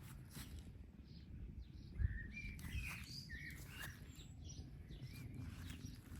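Birds singing: a quick run of short, looping whistled notes about two seconds in, with scattered faint chirps around it. A single low thump comes just as the song starts, over a steady low wind rumble.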